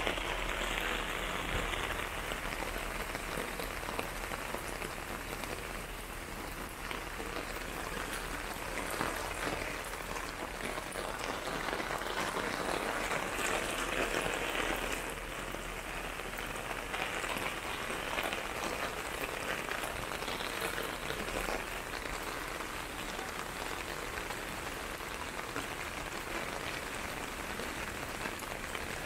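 Steady rain falling on hard surfaces, its hiss growing heavier and easing off a few times.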